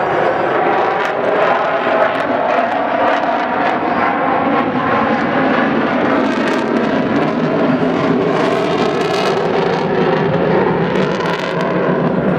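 Avro Vulcan XH558's four Rolls-Royce Olympus jet engines, a loud, steady jet noise as the bomber flies its airshow display.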